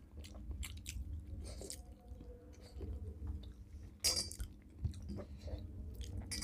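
A person chewing a mouthful of rice and fish curry: soft, wet chewing and mouth clicks, with a brief louder smacking noise about four seconds in.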